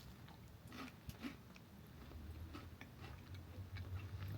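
Faint chewing of a chocolate wafer bar, with a few soft crunches.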